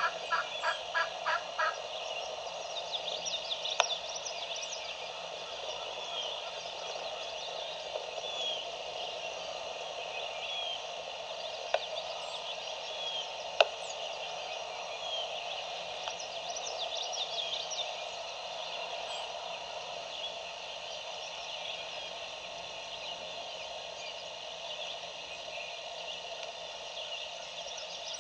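Outdoor woodland ambience: songbirds chirping over a steady background hum. A quick run of about a dozen rhythmic, evenly spaced calls is heard in the first two seconds, and a few sharp clicks come later.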